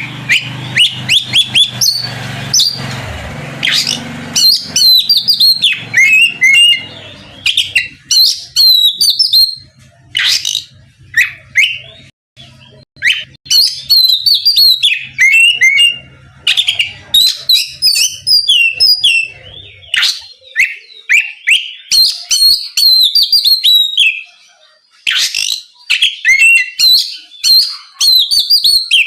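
Oriental magpie-robin (kacer) singing in full song: loud, varied phrases of sharp chirps, slurred whistled notes and quick rattles, delivered in bursts with short pauses between them.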